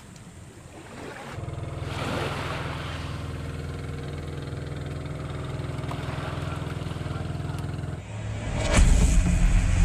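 A small engine running steadily with an even low hum, starting about a second in. Near the end it becomes a louder, rougher low rumble.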